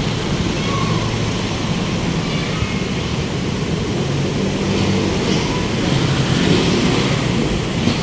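City road traffic: vehicle engines running and steady road noise, getting a little louder about two-thirds of the way through as traffic passes close by.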